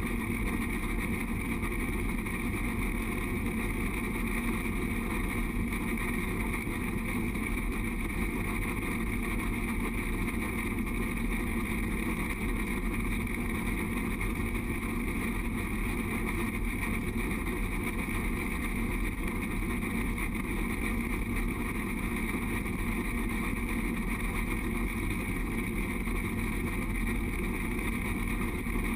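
Steady running noise of the moving Durango & Silverton narrow-gauge train, an unchanging rumble mixed with wind.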